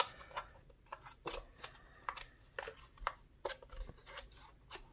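Small plastic clicks and rustles of a portable tire inflator's rubber air hose being pushed back into its storage slot in the plastic body.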